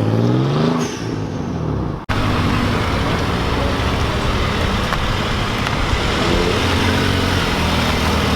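Car engines at close range: one engine note falls in pitch over the first second or so, the sound breaks off abruptly about two seconds in, then steady engine and traffic noise continues with an engine note rising again near the end.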